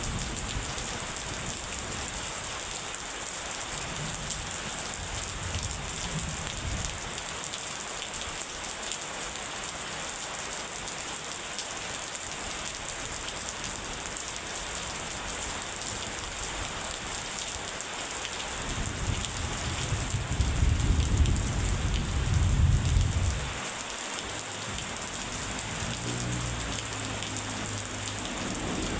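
Steady heavy rain falling, with low thunder rumbling underneath: a soft rumble a few seconds in, a louder rolling peal about two-thirds of the way through that cuts off suddenly, and another faint rumble near the end.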